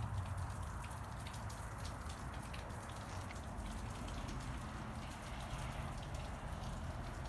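Light, irregular ticking of falling precipitation over a steady low outdoor rumble.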